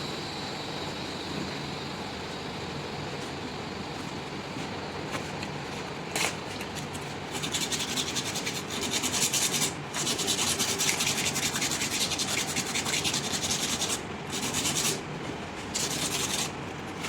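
Sandpaper rubbing on a window AC's copper refrigerant pipe, cleaning the spot around the leak before it is sealed. A rapid back-and-forth rasp starts about seven seconds in and runs for several seconds, then comes in two short bouts near the end.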